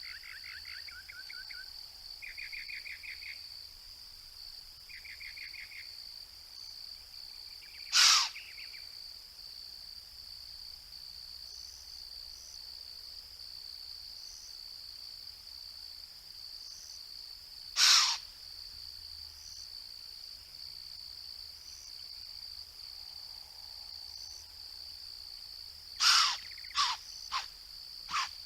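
Steady high-pitched insect drone, with a few short trills in the first six seconds. Loud sharp clicks cut through it twice, about ten seconds apart, then several come in quick succession near the end.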